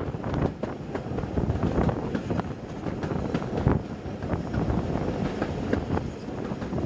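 Railway carriage running at speed along the track, wheels on the rails with irregular knocks, heard from an open carriage window with wind buffeting the microphone.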